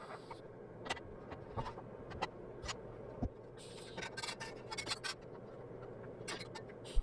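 Scattered clicks, knocks and scraping of parts being handled by hand, with a busier patch of scratchy noise around the middle and a faint steady hum underneath.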